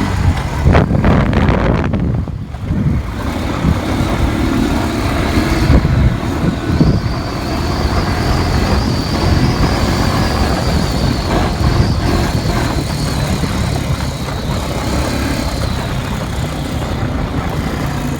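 Four-wheeler (ATV) engine running as it is ridden, a continuous rumble.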